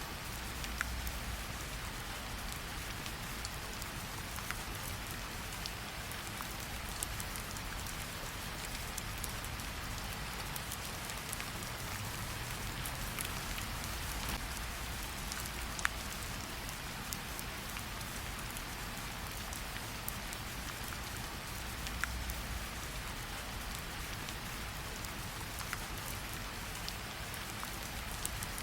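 Steady rain mixed with a crackling fireplace: an even hiss of rainfall with scattered sharp pops and crackles, and a low rumble that swells now and then.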